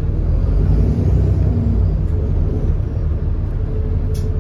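Cummins ISB 6.7-litre diesel engine of an Alexander Dennis Enviro400 double-decker bus running under way, a steady low rumble heard from on board; the bus has an exhaust leak. A faint steady whine comes in after about three and a half seconds, and there is a single sharp click near the end.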